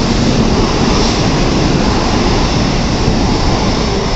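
16-car N700-series Shinkansen train pulling out of the platform and moving past, a loud, steady rush of running noise.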